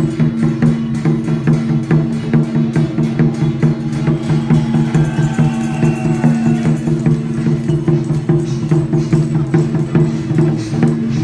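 Music with fast, dense drumming and woodblock-like percussion strokes over steady, sustained low tones, typical of ritual music at a Taiwanese temple ceremony.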